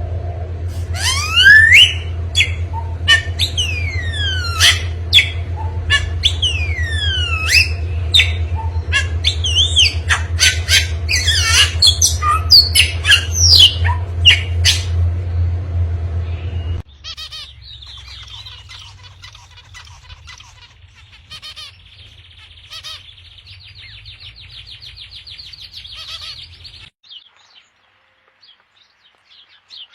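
Bird calls: loud, sharp squawks and whistles, many sweeping down in pitch, over a steady low hum. About halfway through, the sound cuts abruptly to fainter, rapid chattering bird calls, which stop near the end.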